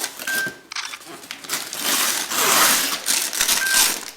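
Wrapping paper being torn and crinkled in irregular bursts, with two brief high beeps, one near the start and one near the end.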